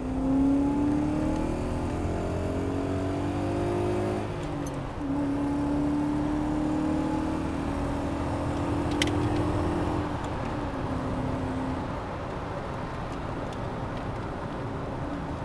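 BMW E34 530i's 3.0-litre V8 running through a Simons aftermarket exhaust under way: the engine note climbs for about four seconds, dips briefly, holds a steady higher note, then eases off to a lower steady note about ten seconds in.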